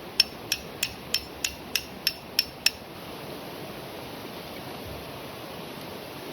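Eight quick hammer blows on metal, about three a second, each with a short ringing tone, stopping about three seconds in. Steady heavy rain hisses underneath throughout.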